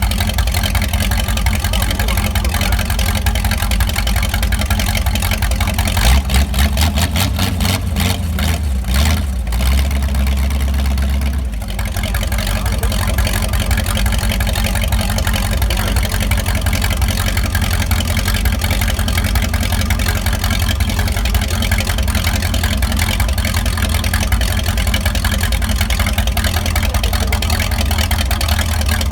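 Carbureted 60-year-old GM Corvette V8 engine running loud and steady. About six seconds in it is revved up and held higher for a few seconds, then drops back to its steady run near twelve seconds.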